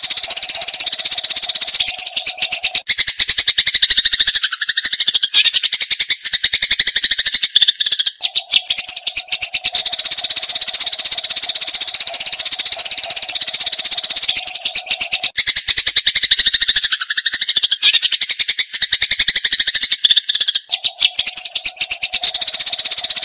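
Eurasian tree sparrows chattering in a fight: a dense, unbroken stream of very rapid, high chirps. A steady low hum comes and goes under it, and the same passage repeats about every twelve seconds.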